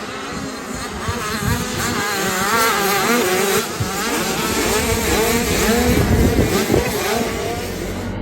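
Several small motocross bikes, 65cc class, revving hard on the track. Their overlapping engine notes rise and fall as the riders accelerate and shift, and grow louder toward the middle of the stretch.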